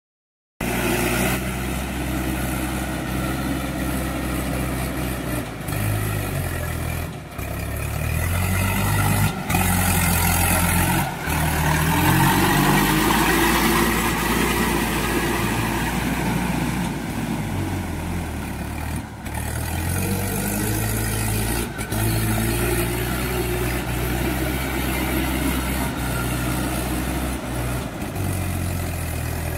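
Mahindra tractor's diesel engine running under load while pulling a cultivator through mud. The engine speed climbs in the middle and settles back, with a few short sharp knocks along the way.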